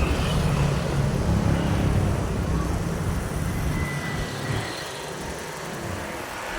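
Motorbike riding: engine and road noise with wind buffeting the microphone as a choppy low rumble, which eases off after about four and a half seconds.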